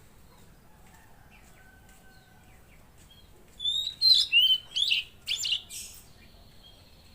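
Tledekan laut bird singing: a quick burst of sharp, rising and falling chirped whistles starting about halfway through and lasting a couple of seconds, followed by a faint buzzy note toward the end.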